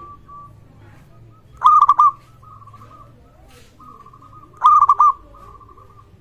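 Zebra dove cooing: two loud phrases of three quick notes each, about three seconds apart, with fainter rapid runs of rolling coos at the same pitch in between.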